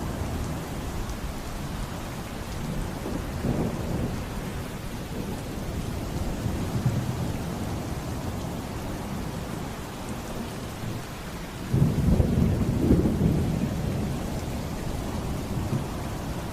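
Heavy rain pouring steadily in a thunderstorm, with thunder rumbling low throughout. A louder, sudden peal of thunder breaks about twelve seconds in and rolls for a couple of seconds.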